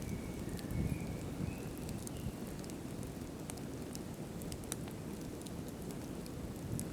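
Wood campfire burning: a steady low rush of flames with scattered sharp crackles from the wood. A faint high wavering whistle sounds through the first two seconds.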